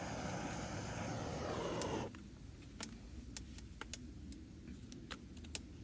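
A steady rush of rain that cuts off abruptly about two seconds in. After it comes a quieter stretch with scattered sharp ticks.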